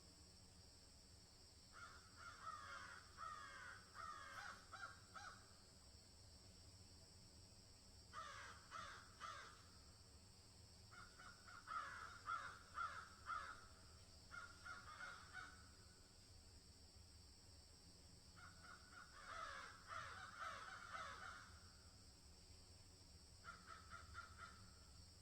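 Birds calling in about six bursts of rapid, repeated harsh notes, over a faint steady high-pitched drone.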